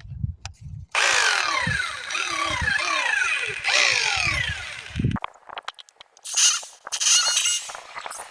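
Electric drill boring into a concrete wall, its whine dropping in pitch again and again as the bit bites. Near the end come a few shorter bursts of drilling.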